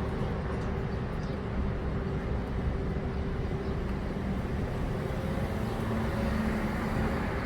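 Steady low mechanical hum with a faint constant tone running under it, unchanging throughout.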